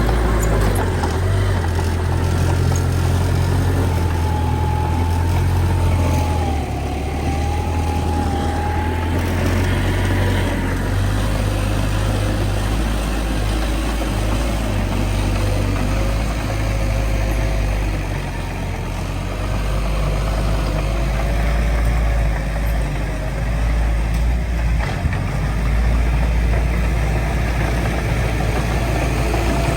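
Heavy diesel engine of a bulldozer running, a steady low drone with a faint wavering whine above it.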